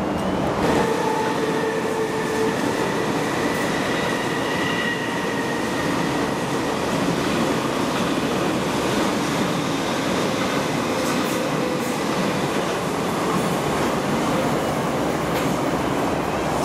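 Metro Cammell electric multiple-unit train running along the track, a steady rumble of wheels on rails. For the first few seconds it carries a high steady whine on several pitches at once.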